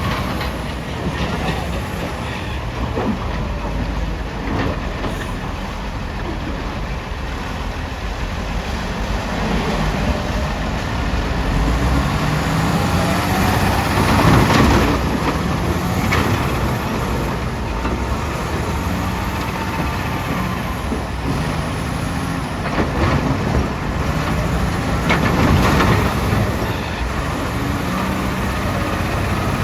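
Caterpillar 966D wheel loader's diesel engine running and revving up and down as it works. Two loud crashes, about halfway through and near the end, fit rocks being dumped into a dump truck's bed.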